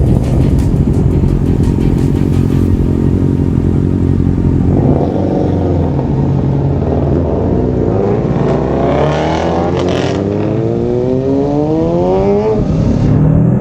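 Kawasaki Ninja 650's parallel-twin engine under way. It climbs steadily in pitch over several seconds as the bike accelerates, then drops sharply near the end on a gear change.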